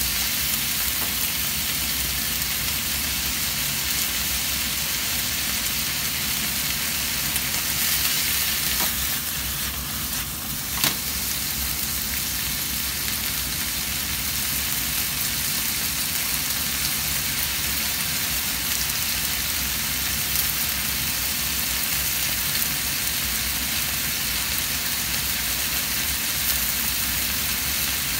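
Offal and vegetables sizzling steadily as they stir-fry in a nonstick frying pan, with two sharp clicks about two seconds apart near the middle.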